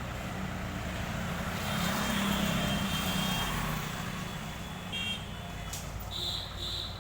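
Old Mahindra 265 tractor's diesel engine running while it works a front loader, growing louder for a couple of seconds as it takes load, then easing back. A few short high-pitched beeps sound near the end.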